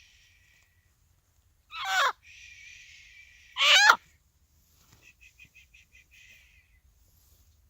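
A hen squawking in distress while stuck and being handled: two loud calls about two seconds apart, each falling steeply in pitch and trailing off raspily. A run of quick short clucks follows, about six a second.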